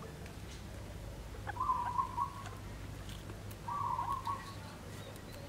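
A bird calling twice, each call about a second long at a steady pitch, about two seconds apart, over a steady low hum.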